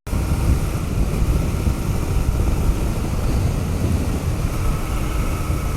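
Royal Enfield Continental GT650's 648 cc parallel-twin engine running steadily under load in sixth gear up a steep hill, with wind noise on the microphone.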